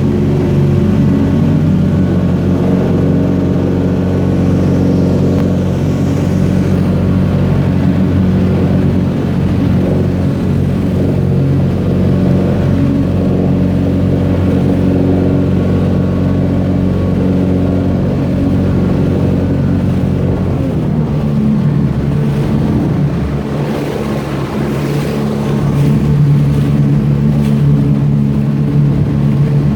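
Boat engine running steadily at a constant pitch, its note shifting lower and changing about twenty seconds in.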